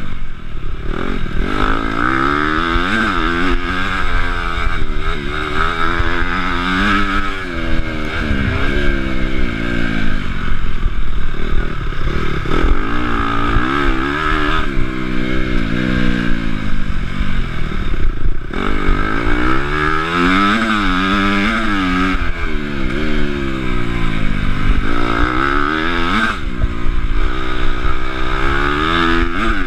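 Honda CRF250 motocross bike's single-cylinder four-stroke engine, heard from the rider's chest, revving up and dropping back again and again as it is ridden hard around a track.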